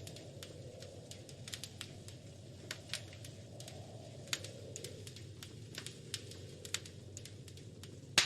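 Wood fire crackling in a fireplace: irregular sharp pops and snaps over a soft low rumble of flame, with the loudest pop near the end.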